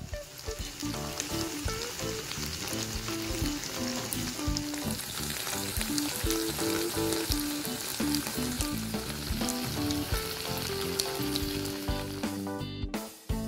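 Tofu cubes frying in a bubbling sauce in a pan, a dense sizzle full of fine crackling pops. The sizzle grows stronger and brighter about five seconds in and eases off near the end.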